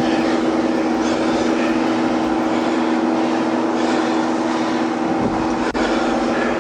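A vehicle engine running steadily: a constant hum with an even rushing noise over it, and one sharp click near the end.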